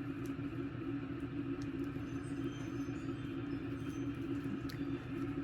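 A steady low hum with a constant droning tone, and a few faint clicks over it.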